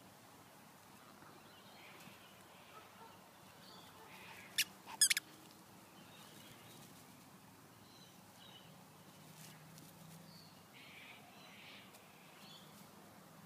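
Quiet outdoor ambience with faint bird chirps. About four and a half seconds in, a short sharp high chirp, followed half a second later by a quick run of high-pitched chirps.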